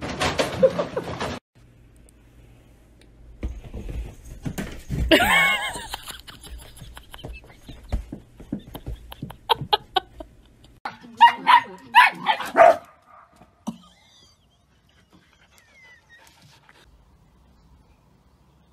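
A dog vocalising: one drawn-out cry that bends up and down in pitch about five seconds in, then a run of short cries a few seconds later.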